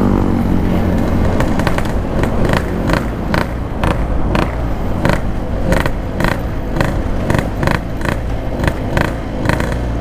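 Yamaha RX-King two-stroke motorcycle riding, its engine note dropping as the throttle closes right at the start. It then runs along with a steady rumble of engine and road noise and many short, sharp clicks.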